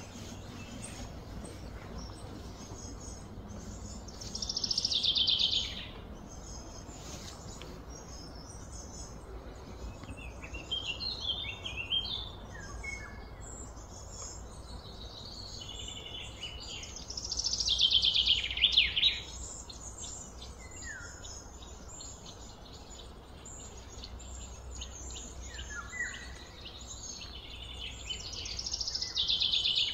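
Birds singing: a loud falling song phrase comes three times, about every twelve seconds, with softer chirps in between, over a steady low background noise.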